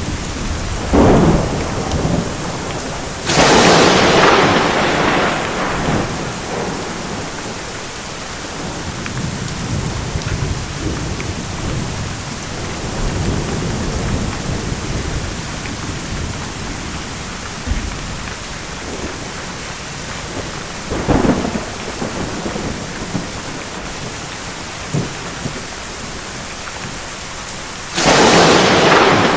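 Thunderstorm: steady heavy rain with repeated thunder. Sharp cracks come about a second in, at three and a half seconds, and around twenty-one seconds, with low rumbling between them, and a loud crack near the end.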